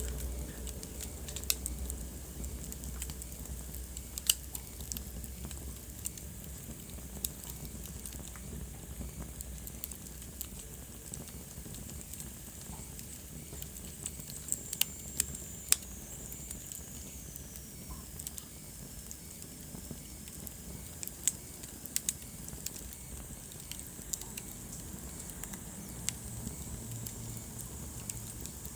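Wood fire burning in a fireplace: a steady soft hiss with irregular sharp crackles and pops, a few louder than the rest. About halfway through, a faint high whistle slides down in pitch for a few seconds.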